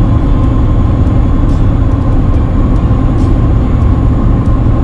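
Steady road and engine rumble of a moving pickup truck, a 2005 GMC Sierra, heard from inside the cab.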